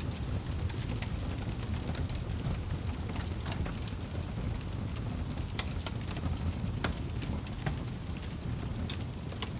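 Wood fire crackling in a fireplace: irregular sharp pops and snaps, a few a second, over a steady low rumble of flame.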